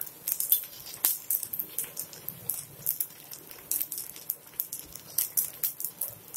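Rava adai cooking on a hot cast-iron tawa, with spoonfuls of oil drizzled around its edge sizzling and crackling in irregular little pops. A sharper click comes about a second in.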